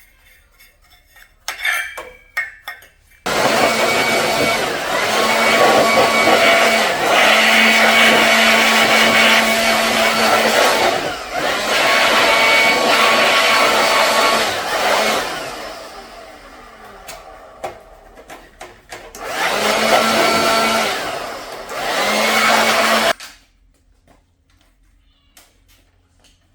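A small motor-driven air blower running loudly with a steady hum and rushing air. It starts suddenly, eases off for a few seconds in the middle, comes back, then cuts off abruptly.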